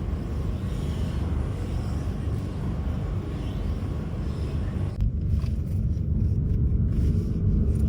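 Steady low rumble with a higher hiss over it; about five seconds in the hiss drops away, leaving the rumble.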